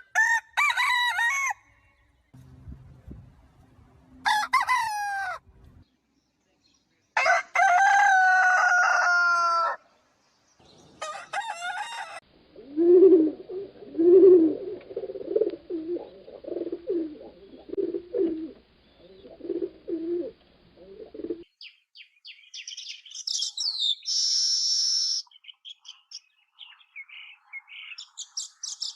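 A rooster crowing four times, the longest crow about 2.5 s with a falling pitch, then chickens clucking in short low notes for about nine seconds. From about 22 s in, small birds chirp in quick high notes.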